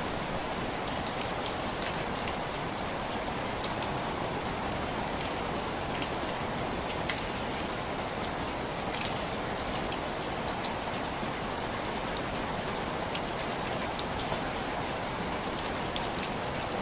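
Steady rain on window glass: an even hiss with many scattered sharp ticks of single drops striking the pane.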